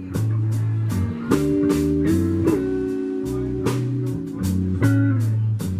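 Blues band playing an instrumental passage between sung lines: guitar, a walking bass line and a drum kit keeping a steady beat, with held, slightly bending notes over the top.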